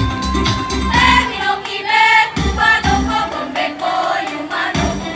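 A choir singing a song together, with accompaniment and a steady beat.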